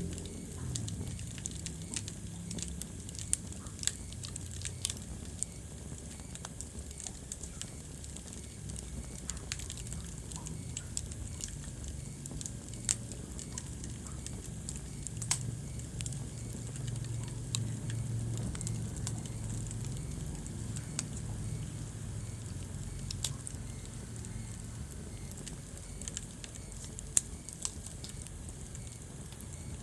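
Wood fire in a fireplace crackling, with frequent sharp pops and snaps over a steady low rush of burning.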